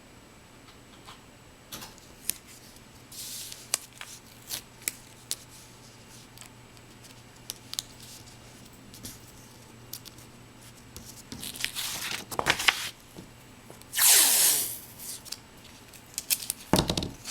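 Scattered clicks and rustles of art materials being handled, with several short tearing sounds; the longest and loudest comes about 14 seconds in.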